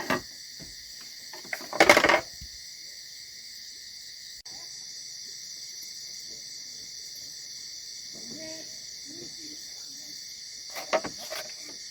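Steady high-pitched drone of a cricket chorus, with one loud, short rustling burst about two seconds in and a few sharp clicks near the end.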